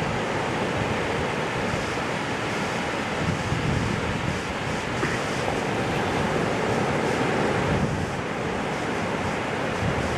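Ocean surf: a steady rush of waves breaking and washing in, with wind buffeting the microphone.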